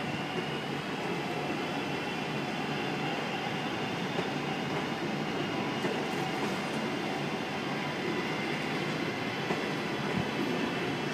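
A passenger train running through a station, a steady rail and running noise with faint high tones above it.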